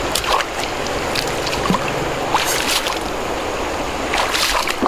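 Running water with a few short splashes.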